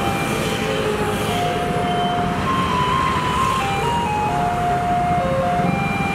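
Garbage truck's loudspeaker playing its chime melody, one plain note at a time, over the truck's engine running.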